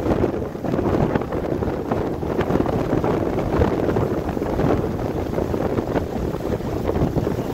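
Strong gusting wind buffeting the microphone, a loud rumbling noise that swells and drops, over fast-rushing river water.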